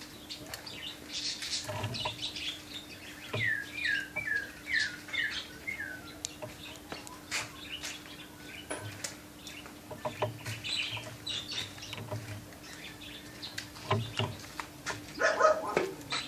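Yorkshire canary chirping: a quick run of about seven short falling notes a few seconds in, among scattered small clicks and taps.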